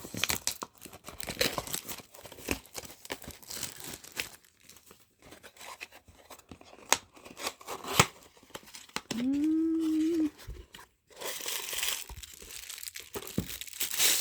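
Plastic wrapper and small cardboard box being opened by hand: crinkling and tearing of plastic with scattered clicks and taps. A short hummed voice sound comes about two-thirds of the way through.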